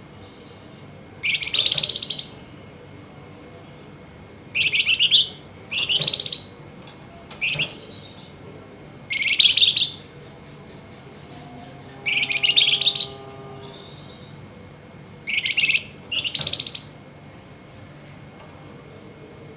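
Flamboyan songbird giving loud, harsh rasping 'nyerecet' chatter calls: short bursts, mostly in quick pairs, every two to three seconds.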